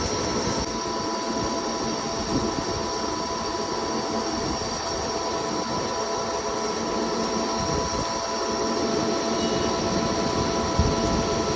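CNC lathe running: a steady machine noise with constant whining tones held throughout.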